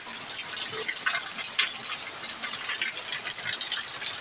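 Heavy rain pouring down steadily, with runoff streaming off a roof edge and splashing onto a concrete floor: an even rushing hiss full of small splashes.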